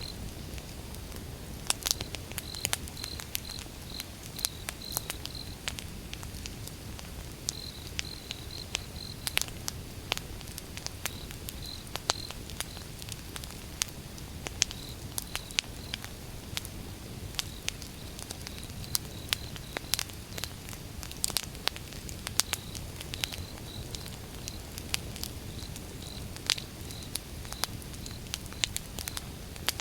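Wood fire burning, with irregular sharp crackles and pops over a low steady rumble. A cricket chirps in short high-pitched trills again and again in the background.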